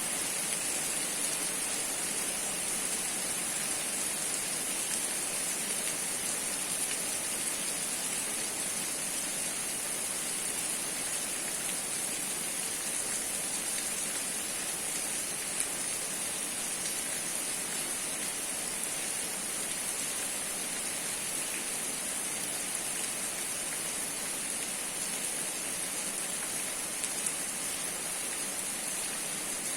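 Steady rain falling, an even continuous patter without a break.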